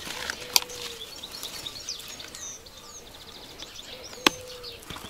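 Small songbirds chirping and trilling in the background, with two sharp clicks, one about half a second in and one near the end.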